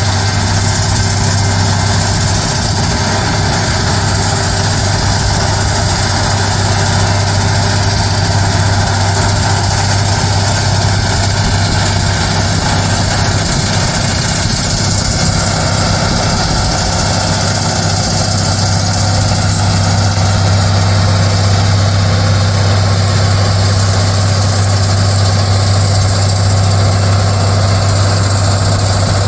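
Loram SBC-20 shoulder ballast cleaner's diesel machinery running steadily at work, with a constant low hum and an even rushing noise over it. It grows a little louder about two-thirds of the way through.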